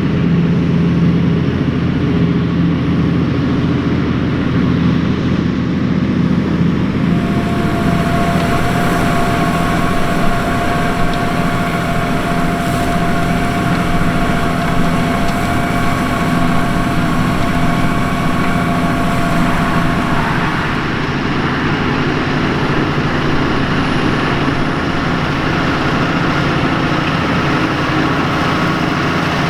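New Holland T7.245 tractor's six-cylinder NEF diesel engine running steadily under load while pulling a five-furrow plough through the soil. A steady whine and added hiss come in about seven seconds in and fade again around twenty seconds.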